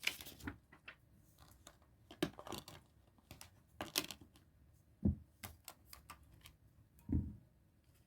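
Scattered clicks, taps and light rustles from a plastic Blu-ray case and its paper insert being handled, with two dull thumps about five and seven seconds in.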